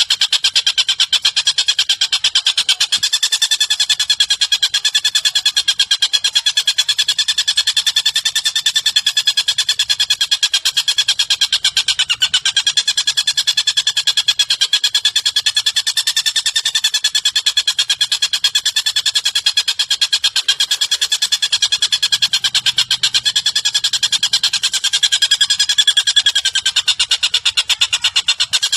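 Recorded birdsong: a continuous, fast, even buzzing trill held at a steady pitch that wavers only slightly, repeated without a break, as used for lovebird song training.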